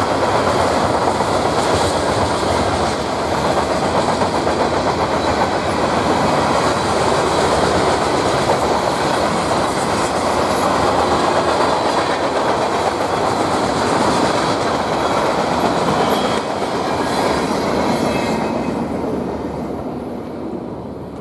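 A train rolling past, its wheels clattering over the rail joints in a steady loud rumble that fades away near the end.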